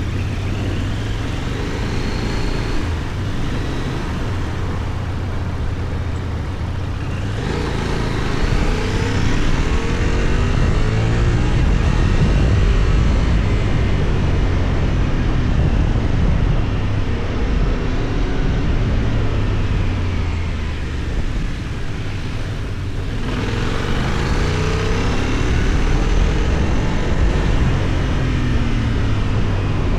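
Benelli Tornado 550's 554 cc parallel-twin (270° crank) engine pulling on the move, its pitch rising in steps through the gears about a third of the way in, dropping off as the throttle eases, then climbing through the gears again near the end, over steady wind and road noise.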